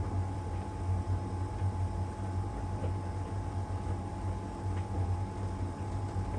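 LG heat pump tumble dryer running mid-cycle with the drum turning: a steady low hum with a constant thin tone above it, and a couple of faint soft ticks.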